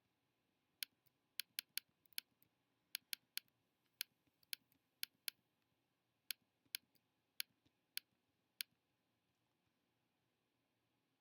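Computer mouse button clicking in irregular runs, about twenty sharp clicks, stopping some three seconds before the end.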